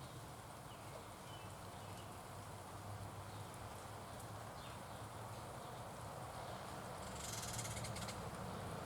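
Faint outdoor ambience at a backyard bird feeder: a steady low hum, a few faint bird chirps, and a harsh buzzy sound about a second long near the end.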